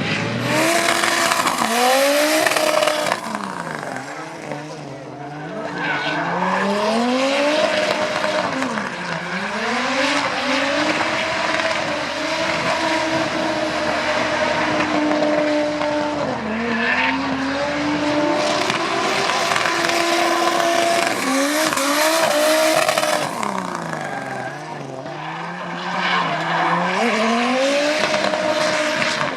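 Turbocharged Audi 2.2-litre 20-valve inline-five drift car engine running at high revs, with the revs rising and falling over and over as the car slides and tyres squealing. The revs drop lower twice, about four seconds in and near the end.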